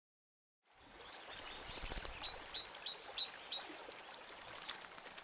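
Outdoor river ambience with a soft rush of water fades in, and a songbird sings a phrase of five quick, repeated high chirps about two seconds in.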